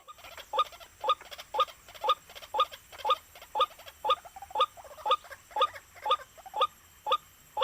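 White-breasted waterhen (ruak-ruak) calling: short, identical notes repeated at a steady, even rhythm of about two a second.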